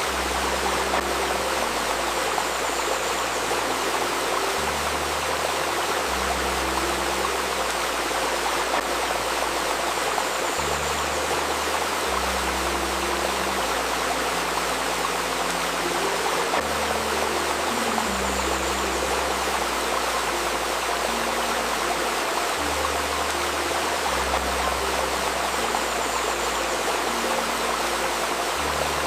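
Babbling river water running steadily. Underneath it, soft ambient music of low sustained notes shifts slowly from one note to the next.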